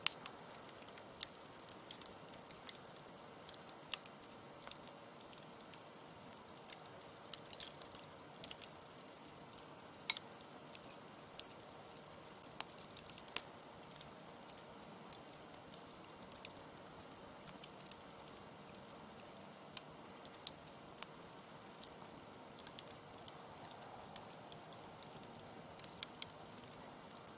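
Campfire burning with irregular crackling and snapping pops over a low steady hiss.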